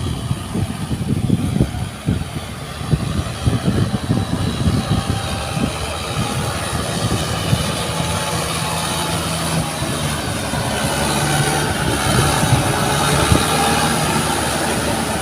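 Tractor engine running, with irregular low buffeting through the first half settling into a steadier drone.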